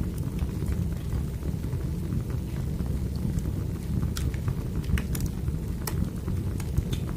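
Crackling wood fire: a steady low rumble of burning logs with irregular sharp crackles and pops scattered through it.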